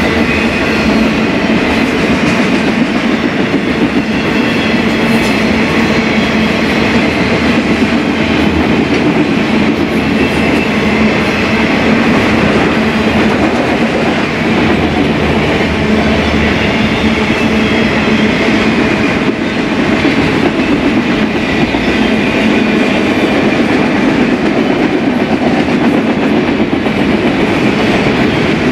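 Freight cars of a BNSF freight train rolling steadily past, the steel wheels running loud and continuous over the rails.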